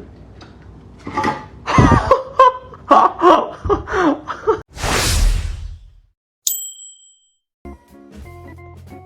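Voice-like calls that shift in pitch for a few seconds, then a short noisy burst and a single bright ding. Background music starts near the end.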